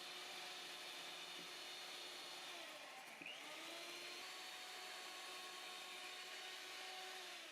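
Electric hand mixer running steadily, likely whipping egg white for a meringue. Its pitch drops briefly and picks back up about three seconds in, as the beaters take on load.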